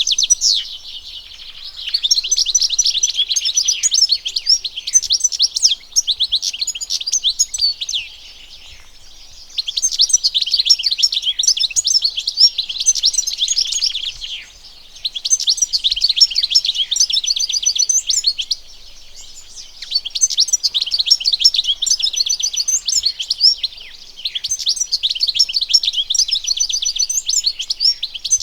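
European goldfinch singing: long phrases of rapid, tinkling twitters and trills, broken by short pauses every few seconds.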